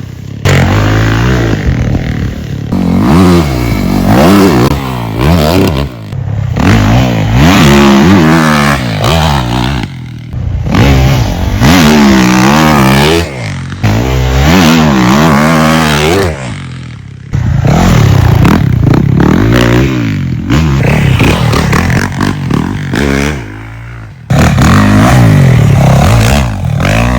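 Yamaha YZ450F single-cylinder four-stroke motocross bike being ridden hard, its engine revving up and falling off again and again through throttle and gear changes, with a few abrupt drops in level.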